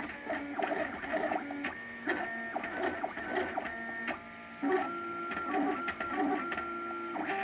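MakerBot Thing-O-Matic 3D printer running a print. Its stepper motors whine in steady tones that jump to a new pitch every half second or so as the print head changes moves, with faint ticking.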